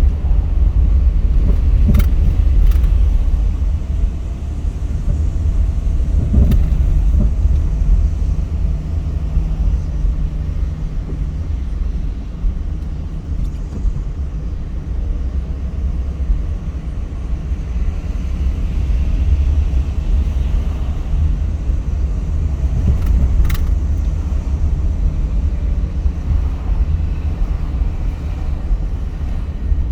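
A car driving: steady low rumble of engine and road noise, with a couple of brief clicks.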